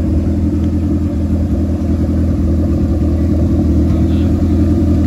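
Turbocharged Toyota 5A four-cylinder engine running at a steady speed, its sound mostly low-pitched and even, with no revving.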